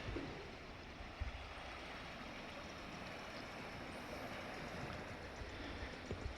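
Sea surf washing in a steady, fairly quiet hiss, with a few soft low thumps.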